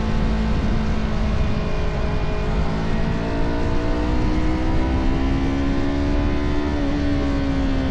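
Motorcycle engine running on the road, its pitch climbing steadily through the middle as it accelerates, then dipping briefly near the end, over a steady rush of wind.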